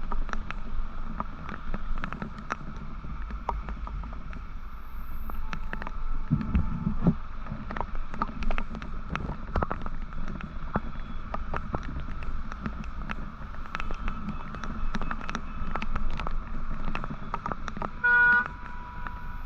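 Road and traffic noise from a moving motorcycle: a steady low engine and road rumble with scattered sharp clicks and knocks. A vehicle horn honks once, briefly, near the end.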